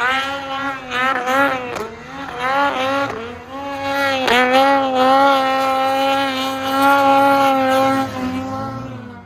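Two-stroke snowmobile engine revving, blipped up and down several times, then held at steady high revs for about four seconds before the revs drop and the sound fades away near the end.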